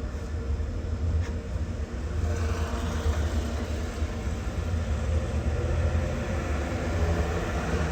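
Norfolk Southern freight train rumbling steadily with a deep, low drone, and a hiss that grows from about two seconds in.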